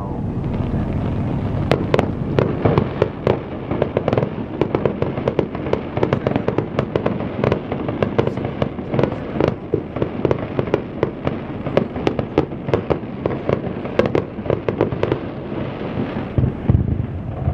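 Fireworks display going off in a dense run of sharp cracks and bangs over a continuous rumble of launches and bursts.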